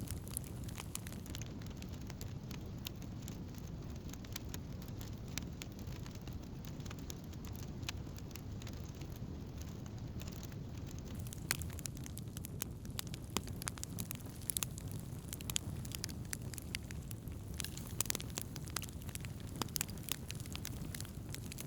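Wood campfire burning, with frequent irregular sharp crackles and pops over a steady low rush.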